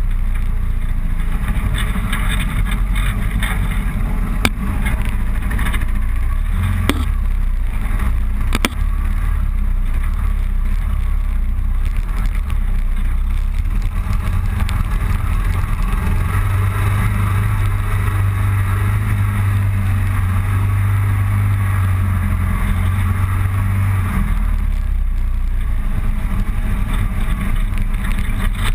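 Motorcycle engine running under way, with steady wind and road noise; the engine's low drone swells and holds for several seconds past the middle, then settles back.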